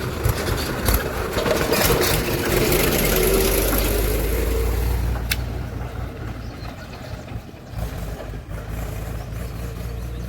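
A heavy vehicle's engine running, working harder with a louder, rougher sound for the first few seconds, then settling to a steadier idle. A single sharp click about five seconds in.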